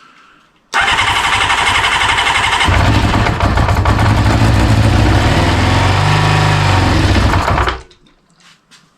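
Kawasaki GPz400R's rebuilt inline-four engine cranking on its starter for about two seconds, then catching on starting spray in the air intake and running for about five seconds before it cuts out. It dies because the fuel tank is off and the spray is all it has to run on.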